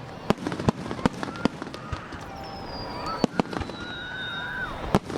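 Aerial fireworks going off: a rapid, uneven string of sharp bangs and crackles, with a high whistle slowly falling in pitch through the second half.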